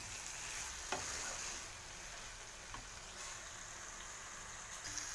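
A pan of amaranth greens (note shak) sizzling steadily in a kadai as it is stirred with a wooden spatula, with one light knock about a second in.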